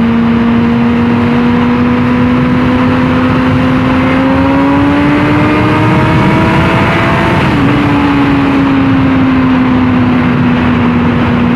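Honda CBR600RR's inline-four engine pulling under way, its pitch climbing slowly and then dropping sharply at a gear change about two-thirds of the way through, before easing off, with wind rush throughout.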